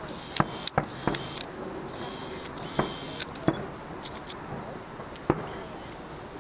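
Distant fireworks: sharp bangs of shells bursting, about six of them, unevenly spaced. In the first half they are mixed with short bursts of high crackling hiss.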